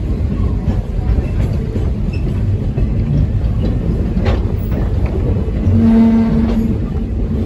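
Passenger train running along the track, heard from aboard: a steady low rumble of the cars with occasional clicks from the wheels. A short steady tone sounds about six seconds in.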